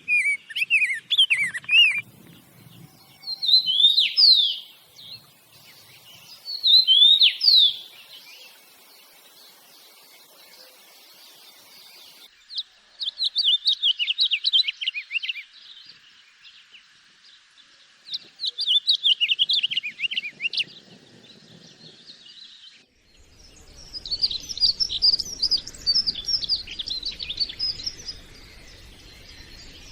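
Small songbirds singing in short phrases of rapid high chirps and trills, coming in separate bursts every few seconds, with a denser run of overlapping chirps near the end.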